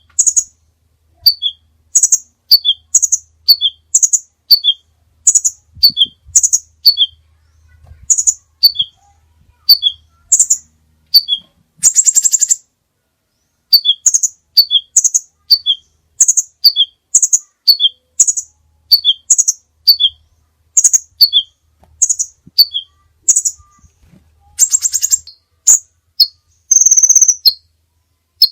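A songbird calling over and over with short, loud, high chirps, about one or two a second. Twice a brief buzzy trill breaks the series, and near the end comes a longer held whistle.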